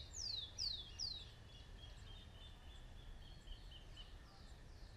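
A bird calling: three quick whistles, each falling in pitch, in the first second, then a run of short, softer notes at a steady pitch. A faint low rumble lies beneath.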